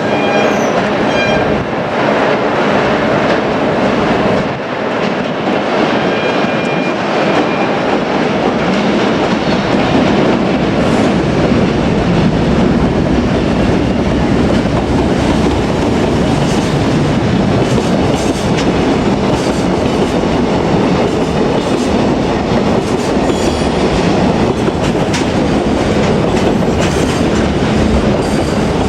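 Train passing close by in a steady, loud rumble, its wheels clicking over the rail joints.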